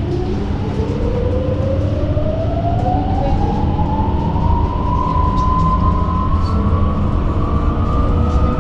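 Electric bus traction motor whine rising steadily in pitch as the bus accelerates, over a low rumble of the ride inside the cabin.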